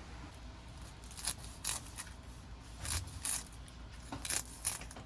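A series of short scrapes and clicks of small objects being handled, about eight of them in a few seconds, over faint room hiss.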